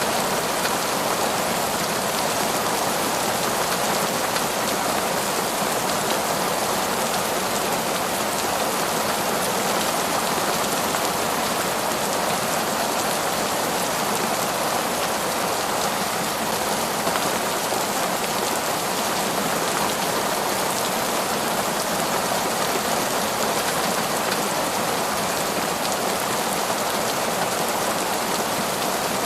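Heavy, torrential rain falling steadily, a dense even wash of drops that neither builds nor eases.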